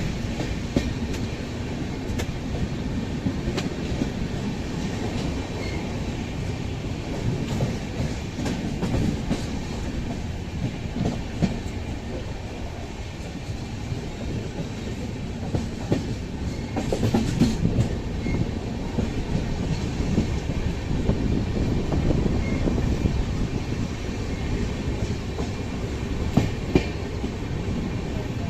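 Coromandel Express passenger train running: a steady low rumble with scattered clicks and knocks of the wheels over rail joints.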